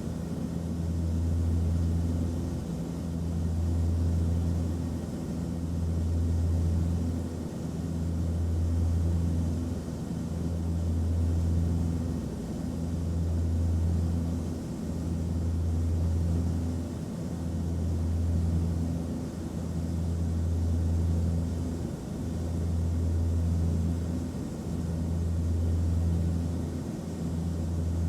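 Airplane cabin noise in flight: a steady drone and airy hiss, with a low hum that swells and fades about every two seconds in an even throb.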